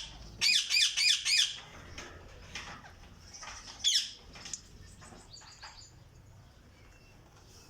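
Alexandrine parakeets squawking: a quick run of about four loud, harsh calls at the start, one more loud call about four seconds in, and softer calls between and after.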